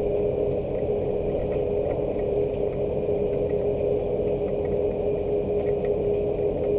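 Rain falling steadily over a constant mechanical hum that holds one steady tone, with faint scattered drip ticks.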